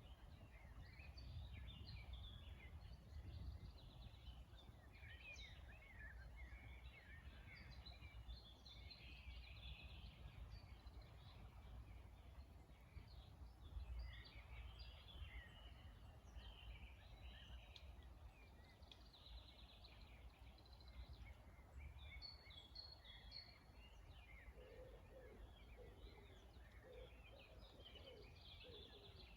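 A chorus of small songbirds chirping and trilling, faint, over a steady low rumble. From about 24 seconds in, a dove joins with repeated low cooing.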